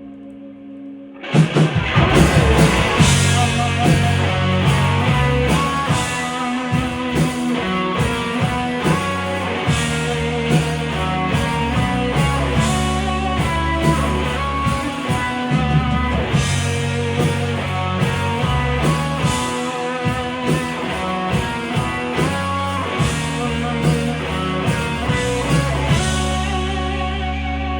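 Live rock band, electric guitar, bass and drum kit, coming in all together about a second in and playing on steadily at full volume.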